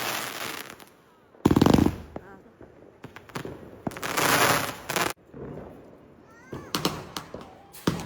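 Fireworks going off: a sharp bang about a second and a half in, a longer stretch of crackling around four to five seconds in, then a few smaller cracks.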